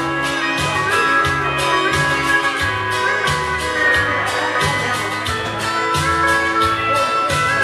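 Instrumental break of a country band: a guitar lead over bass and a steady drum beat.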